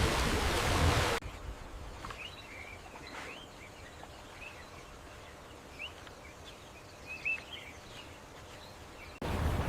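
Low background hiss with scattered short, high bird chirps, some rising and some falling. A loud rushing noise cuts off abruptly about a second in and returns abruptly near the end.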